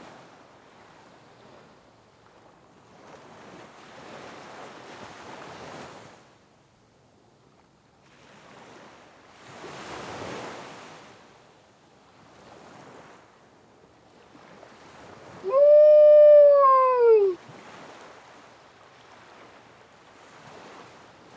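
Soft swells of wind or surf noise rising and falling every few seconds. About two-thirds of the way in comes one loud, drawn-out call lasting about two seconds, its pitch rising and then falling.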